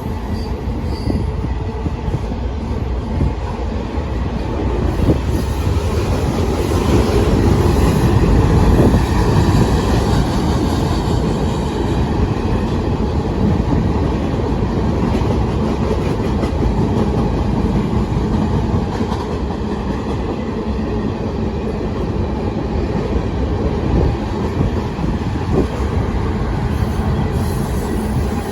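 CN mixed freight train's cars rolling past: a steady, loud rumble of steel wheels on rail with faint clicking over the rail joints and faint wheel squeal, swelling a little about a third of the way through.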